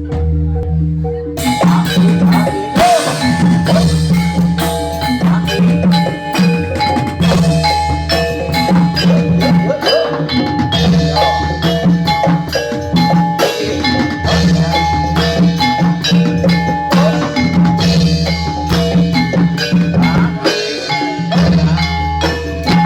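Javanese gamelan music accompanying Jathilan: metal-keyed mallet instruments and drums play a fast, dense pattern over a steady low bass. The full ensemble comes in about a second and a half in.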